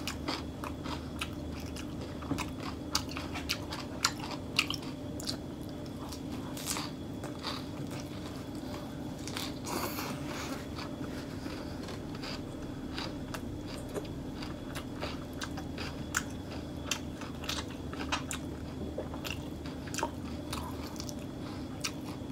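Close-miked chewing of a fresh lettuce wrap of beef rolled in betel leaves: crisp crunches and wet mouth clicks scattered throughout, over a steady low hum.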